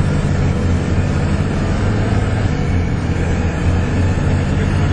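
Volvo B7TL bus's seven-litre six-cylinder diesel running hard under sustained throttle, with the vacuum-cleaner-like 'hoover' whoosh over the engine's steady low drone, heard from inside the bus.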